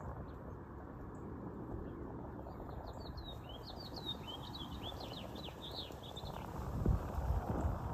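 A small bird sings a rapid phrase of short chirping notes for about four seconds, over a steady low background noise, with a dull low thump near the end.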